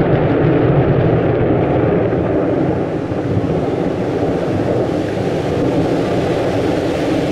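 Thunder rolling after a lightning strike: a long, steady low rumble that goes on for several seconds without letting up.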